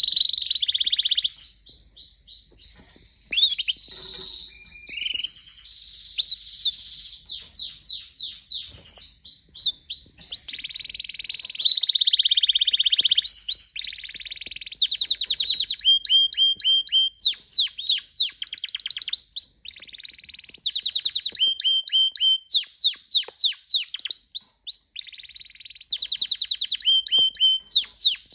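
Domestic canary singing: a long, varied song of rapid trills, quick repeated chirps and sweeping whistles, with fast rolling trill passages from about ten seconds in.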